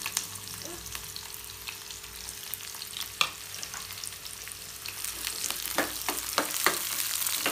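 Chopped shallots, green chillies and dried red chillies sizzling and crackling in hot oil in a small frying pan as a tempering. There is a sharp click a little past three seconds in. The sizzle grows louder near the end as a steel spoon stirs and scrapes the pan.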